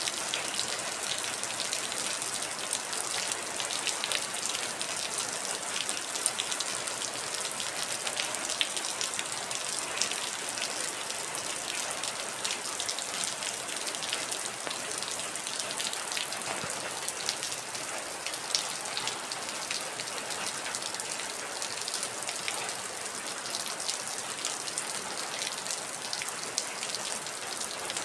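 Heavy rain falling steadily, a dense hiss with the patter of individual drops striking a surface.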